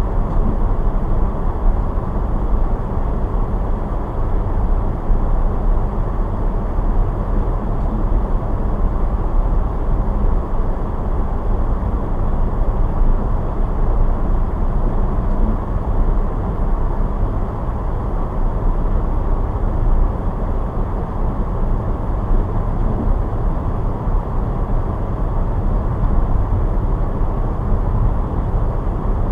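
Car driving: a steady, muffled rumble of engine and tyre noise on the road, with no change in pace.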